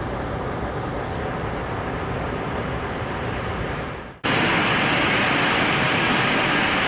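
Steady road and engine noise of a grain truck on the move. About four seconds in it cuts abruptly to a louder, hissier rush.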